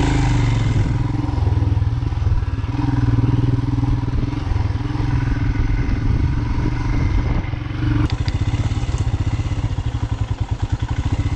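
Dual-sport motorcycle engine running as the bike rides a dirt track. About eight seconds in, the note drops to a slower chug with each firing pulse heard separately.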